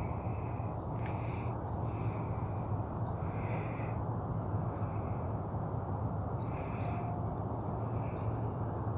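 Birds calling in short, crow-like caws, about one a second, then a pause, then two more near the end, over a steady low rumble.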